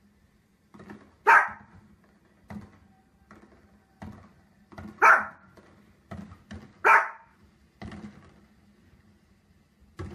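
Small dog barking three times in sharp, single barks, about a second in, then near the middle and again a couple of seconds later, with soft thuds in between.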